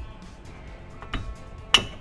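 Metal clinks as a brake caliper is pressed into place over new brake pads: a light click about a second in, then a sharper, louder clink near the end. Background music plays underneath.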